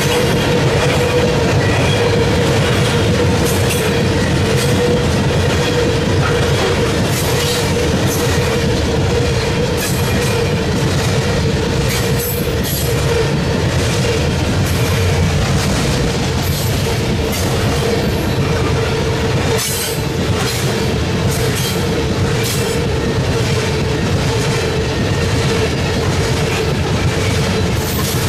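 Long freight train of coal cars rolling past: a steady heavy rumble with irregular clicks of the wheels over the rail joints and a steady ringing tone from the wheels.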